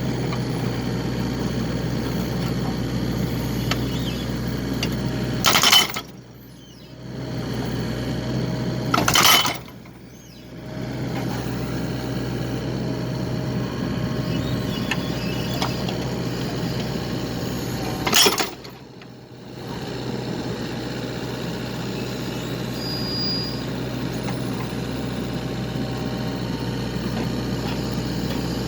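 Excavator engine and hydraulics running steadily while splitting firewood, with three loud sharp cracks, about six, nine and eighteen seconds in, as logs are split; after each crack the sound briefly drops away.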